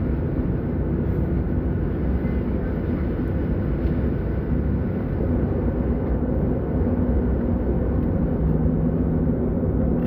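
Steady roar of jet airliner cabin noise, a low engine-and-air rumble with a faint steady hum through it.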